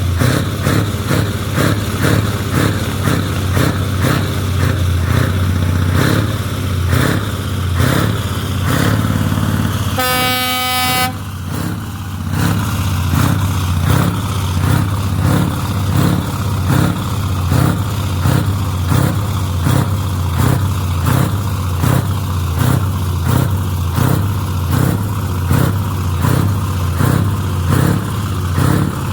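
Scania truck engine running with a steady low drone and a regular pulsing beat, and a horn blast lasting about a second about ten seconds in.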